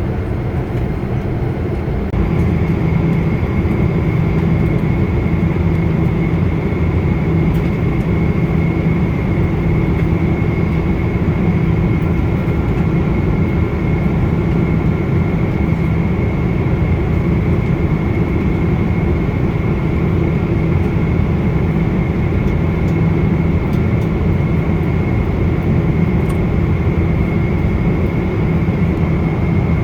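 Steady jet engine and airflow noise inside the cabin of a Boeing 777-200ER, a dense low rumble with a thin steady whine on top; it grows slightly louder about two seconds in.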